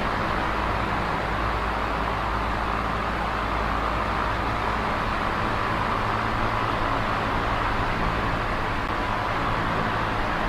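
Small oscillating electric fan running steadily: an even rush of air with a low motor hum underneath.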